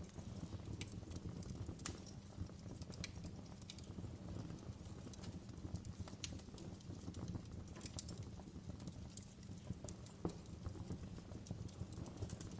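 Fire crackling: irregular sharp pops and snaps, a few every second, over a low steady rumble of burning.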